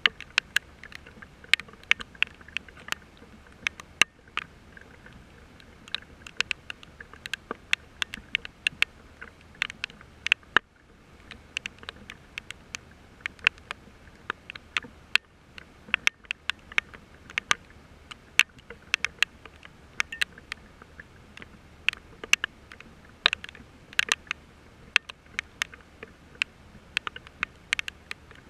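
Rain falling, with drops landing close by as irregular sharp ticks, several a second, over a faint steady hiss.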